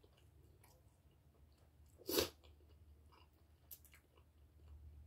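A person chewing food close to the microphone with the mouth closed, with faint soft mouth clicks. About two seconds in comes one brief, louder noise.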